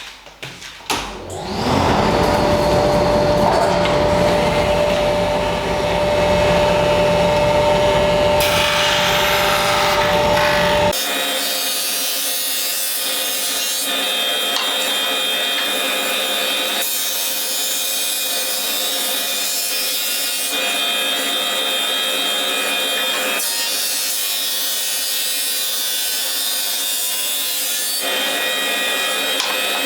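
A power tool working wood: a steady motor with the rasping noise of the tool on the wood. About ten seconds in the sound changes abruptly to a thinner version without its low end, cut together from several short takes.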